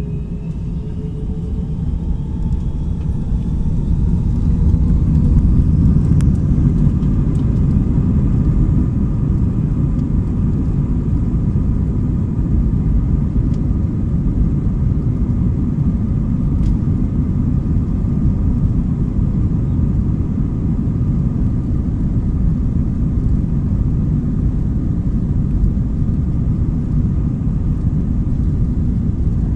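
Airbus A321 jet engines spooling up to takeoff power. A whine rises in pitch over the first few seconds, then gives way to a steady, loud, deep roar.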